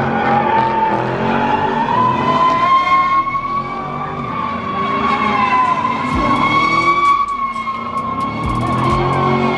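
A car's tires squealing in one long, slightly wavering squeal, with the engine revving underneath, as the car does a burnout or donuts.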